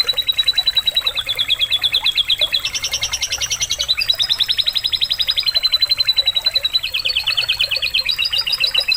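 Domestic canary singing a continuous fast trilled song, switching to a new rapid trill every second or so, some of its phrases copied from a lovebird.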